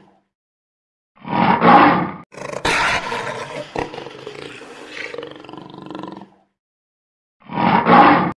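Big cat roaring: two short, loud roars about six seconds apart, with a longer, quieter stretch of roaring between them.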